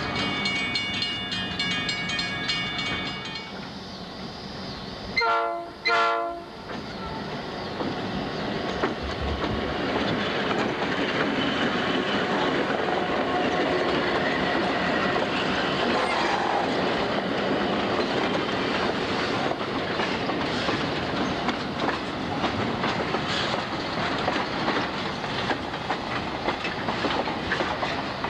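Diesel freight locomotive horn: a held note that stops about three seconds in, then two short blasts. After that the train rolls past with a steady rumble of wheels and engines and scattered rail clicks.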